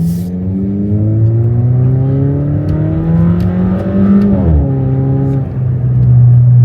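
Car engine accelerating, its pitch rising steadily for about four seconds, then dropping suddenly at an upshift and settling into a steady drone.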